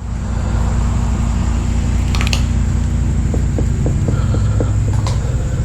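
Steady low mechanical hum with a throb, like a motor or fan running, with a few faint ticks and clicks over it in the second half.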